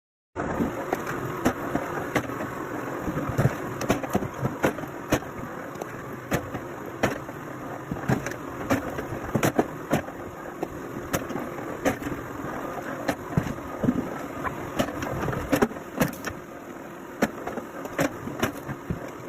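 A machine's engine running steadily, with frequent irregular sharp knocks and clacks over it; it starts abruptly after a brief silence.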